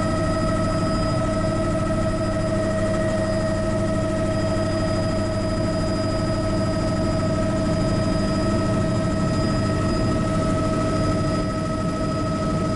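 Bell 206B JetRanger helicopter in flight, its Allison turboshaft engine and rotors making a steady drone with a constant high whine over a low rumble.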